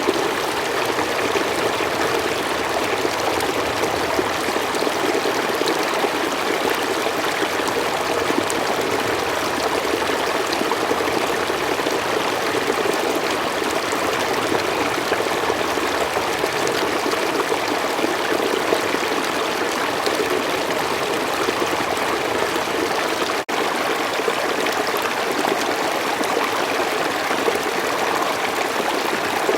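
Forest stream running steadily over its bed, an even rush of flowing water. There is one momentary dropout about two-thirds of the way through.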